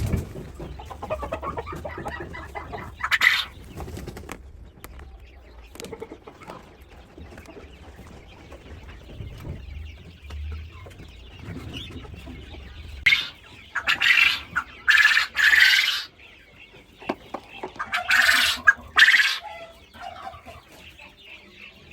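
Domestic quail calling, with a few loud, short calls in the second half. A faint low hum runs under the first half.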